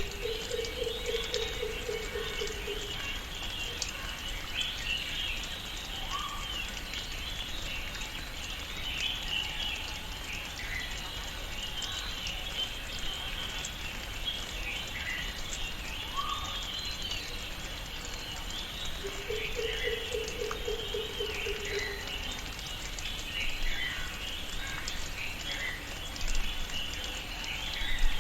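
Tropical rainforest ambience: many birds and insects chirping without a break, with a low pulsing call of about two and a half seconds heard twice, once at the start and again about two-thirds of the way through, and scattered faint ticks.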